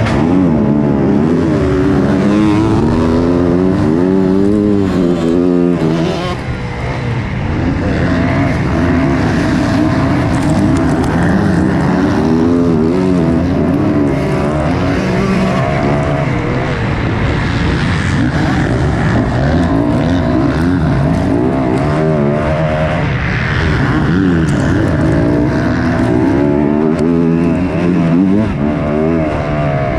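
Motocross dirt bike engines racing, revving up and down again and again as the riders accelerate and shift. Several bikes can be heard at once, their pitches overlapping.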